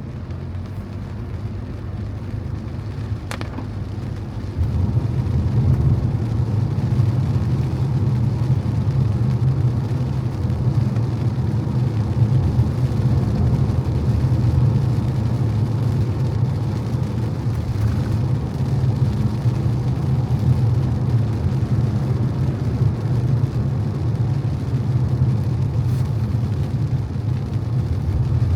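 A car driving on a wet road in the rain: a steady low road rumble under a hiss of tyres and rain, growing louder about four and a half seconds in.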